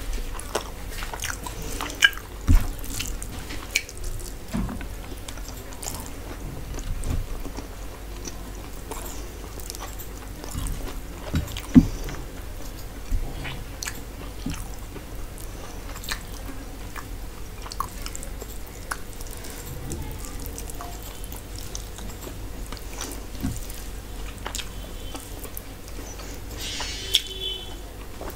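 Close-miked eating: chewing and wet mouth sounds of a person eating rice and curry by hand, with scattered small clicks and smacks as the rice is mixed and bitten.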